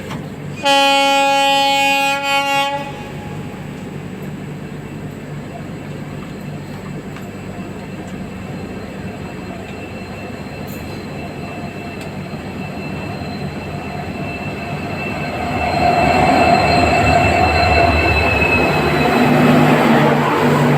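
A WDP4D diesel locomotive's horn sounds one blast of about two seconds, starting about a second in. Then the locomotive and its express train draw near slowly: a rumble that grows and is loudest over the last five seconds, with steady high tones riding on it.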